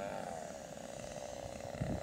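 Two-stroke chainsaw engine powering a homemade aircraft, buzzing steadily; its pitch swings up and down right at the start, then holds. Low thumps come in near the end.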